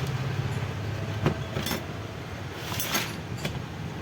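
A few sharp clicks and taps, like parts or tools being handled on a workbench, over a steady low hum.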